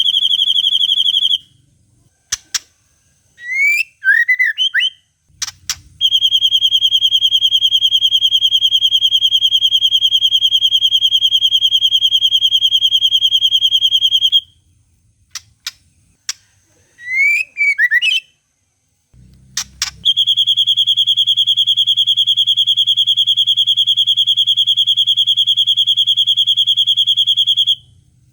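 Birdsong training recording: long, even, rapid high trills in the style of a cililin, each held about eight seconds, alternate with short whistled, gliding phrases and a few sharp clicks of white-rumped shama song.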